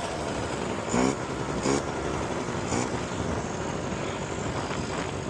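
Suzuki LT80 quad's small two-stroke engine running, revved up briefly three times over its steady drone.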